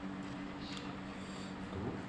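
A steady low hum with a faint noisy background, and a couple of faint brief sounds on top.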